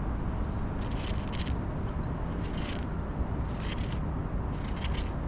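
Wind rumbling on the microphone. Over it, short scratchy sounds come every second or so.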